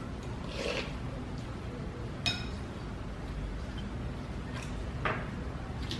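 Eating utensil clinking once against a bowl, with a short ring about two seconds in. Softer brushes and scrapes of eating come shortly after the start and about five seconds in, over a steady low hum.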